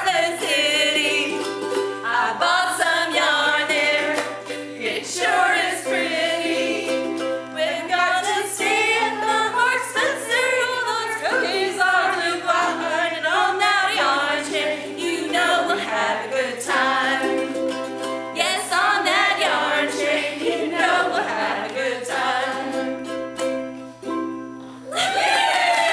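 A song sung with instrumental accompaniment, over a steady low hum. Near the end the singing stops and clapping starts.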